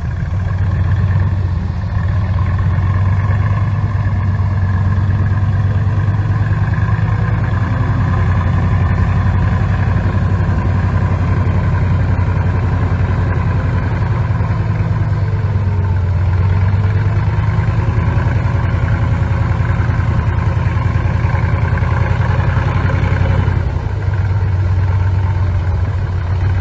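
Heavy diesel engine of construction machinery running steadily with a deep low hum, its pitch and load shifting slightly about midway and again near the end.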